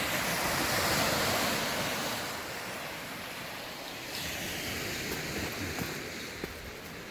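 Lake Superior waves washing against the shore, one surge building right at the start and peaking about a second in, then easing, with another swell coming in about four seconds in.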